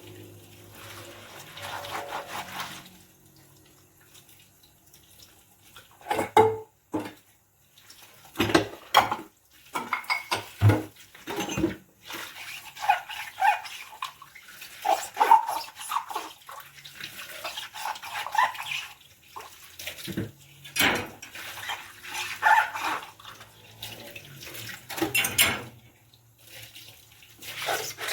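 Dishes being washed by hand in a sink: water running and splashing, with a run of sharp knocks and clinks of dishes against each other and the sink in the middle.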